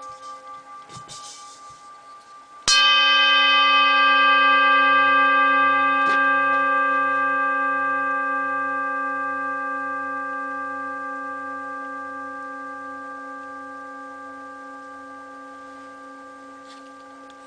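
Large thin-walled singing bowl (658 g, about 7¾ inches across) struck once a few seconds in, after an earlier ring has faded low. It rings a warm, full note made of several steady tones with a slow wavering, and the note fades slowly over many seconds with long sustain.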